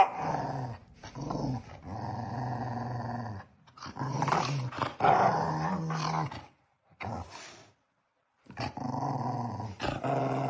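A dog growling in long, drawn-out stretches with short breaks between them, with a full stop of about a second and a half about two-thirds of the way through.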